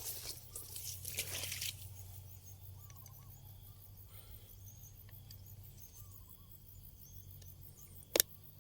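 Outdoor ambience: rustling for the first second or two, then many faint, short chirping calls over a low steady background, with one sharp click near the end.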